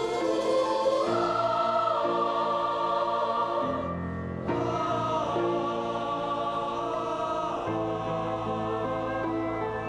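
A choir singing slow, sustained lines, with a short break between phrases about four seconds in.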